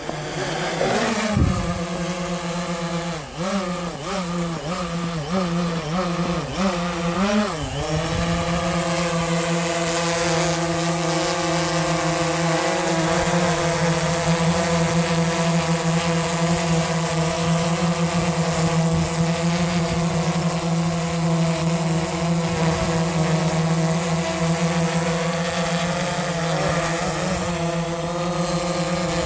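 DJI Phantom 3 Advanced quadcopter's motors and propellers running with a whistling hum, which the owner considers totally normal. The pitch wavers up and down for the first several seconds, then holds steady.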